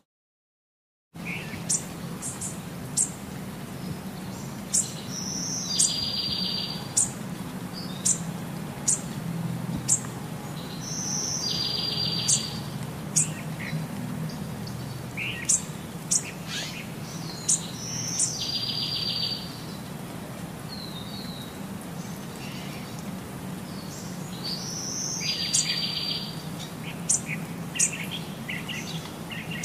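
Small birds chirping: short high chirps about once a second, with a longer trilled phrase coming back every six or seven seconds, over a steady low hum. The sound starts about a second in.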